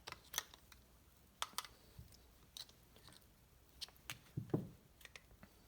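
Scattered sharp clicks and light metal taps from a piston-ring compressor and piston being worked into a cylinder of a two-stroke Mercury Sport Jet engine, with a slightly heavier pair of knocks about four and a half seconds in.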